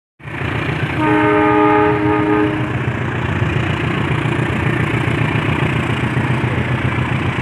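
A train sounding its horn, a steady chord-like blast of about a second and a half starting about a second in, over the continuous low noise of the train running.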